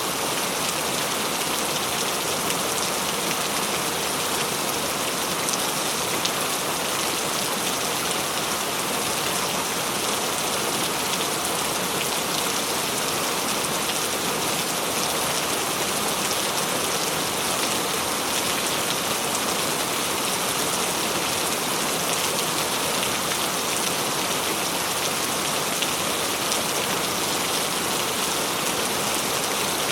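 Steady heavy rain falling on a surface, an even hiss of many drops with no breaks.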